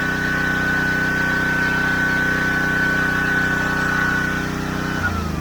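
Pressure washer motor and pump running steadily with a high whine, then switched off about five seconds in, its pitch falling as it winds down.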